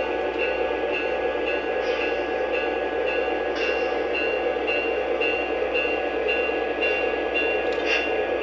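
Model train running along layout track with a steady rolling rumble and a faint high tone that pulses about twice a second.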